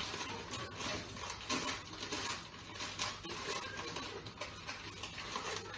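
Brown sugar being scooped into a measuring cup: an irregular run of scrapes, rustles and light taps.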